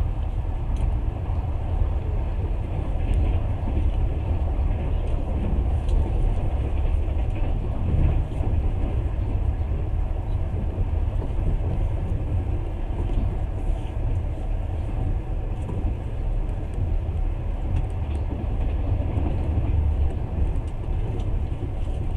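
Steady low rumble of a passenger train running at speed, wheels rolling on the rails, heard from inside the carriage.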